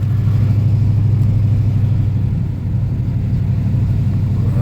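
Truck engine and road noise heard from inside the cab while towing a loaded trailer: a steady low drone.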